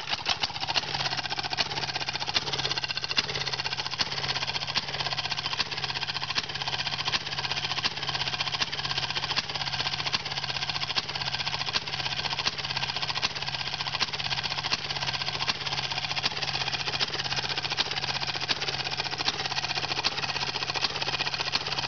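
Nearly century-old Maytag two-stroke washing machine engine running steadily, its rapid, even exhaust pops coming out through a small cannon-shaped exhaust pipe.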